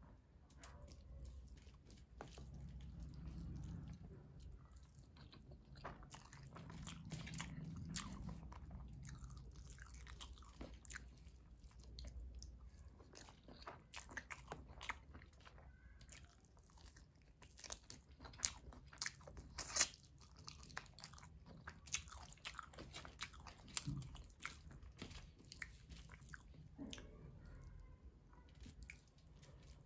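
Close-up eating sounds of mutton biryani eaten by hand: chewing with many short mouth clicks and smacks, a few louder ones about two-thirds of the way through.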